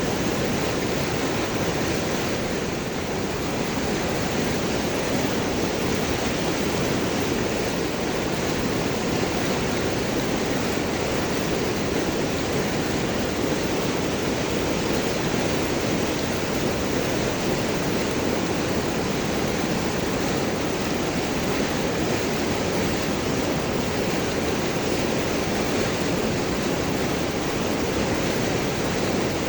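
River water flowing steadily over and around large rocks, a continuous rushing with gurgling.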